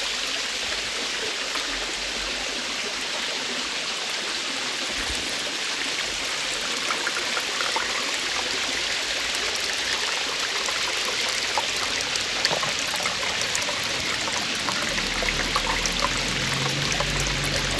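Cave waterfall splashing steadily: a continuous rush of falling water with small scattered splashes.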